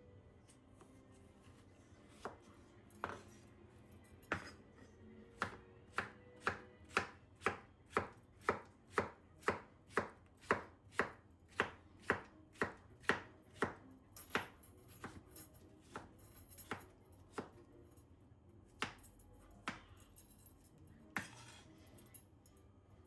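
Knife chopping food on a cutting board: a few single cuts, then a steady run of strokes about two a second for around ten seconds, then slower, scattered cuts.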